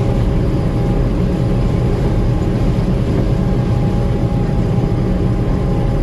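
Gleaner M2 combine running steadily while harvesting corn: a constant engine and machinery drone with a few faint steady whines over it.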